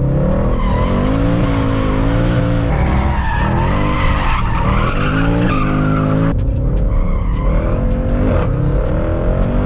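Mercedes C63 AMG's 6.2-litre V8, with its secondary cats and resonators deleted, revving up and down repeatedly under hard driving while the tyres squeal through slides. The pitch swings several times, with a sharp drop a little past halfway.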